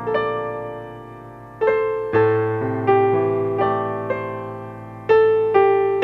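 Slow, gentle piano music: single notes and chords struck every second or so, each ringing and fading before the next.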